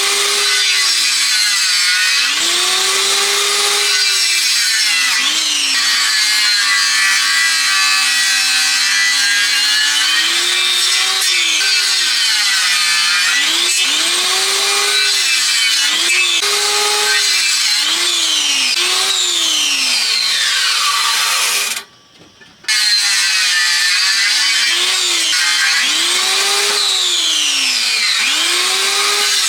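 Hand saw cutting through wood in steady back-and-forth strokes. Each stroke gives a rasping hiss whose pitch rises and falls with the blade's speed. The sawing breaks off for under a second about twenty-two seconds in, then carries on.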